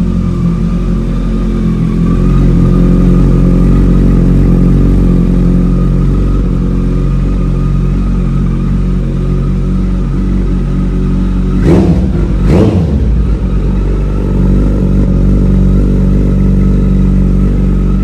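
Kawasaki ZX-14R's inline-four engine, fitted with an aftermarket full exhaust system, idling loudly and steadily. Two quick throttle blips come a little under a second apart, about twelve seconds in.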